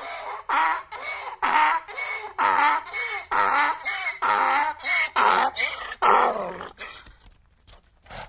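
Donkey braying: a long run of alternating hee-haw calls, about two a second, that dies away about seven seconds in.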